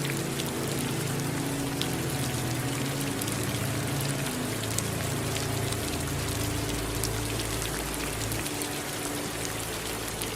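Steady rain falling, with scattered individual drops ticking sharply, over a low droning hum whose tones shift slowly.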